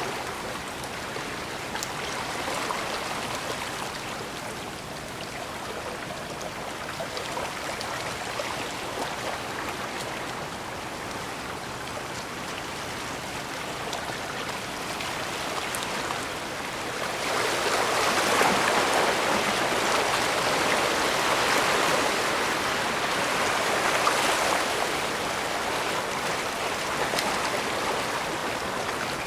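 Bay water washing steadily against the shore, with a louder wash from a little past halfway that lasts several seconds before easing off.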